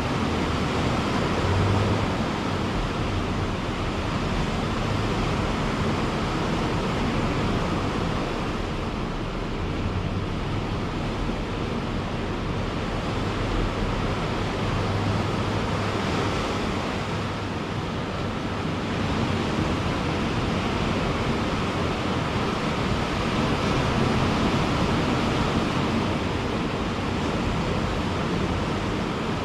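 Ocean waves breaking on a beach: a steady wash of surf that swells and eases slowly.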